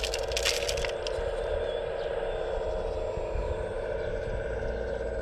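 Hydraulic pump of an RC model excavator whining steadily under a low rumble, with a burst of crackling scrape in the first second.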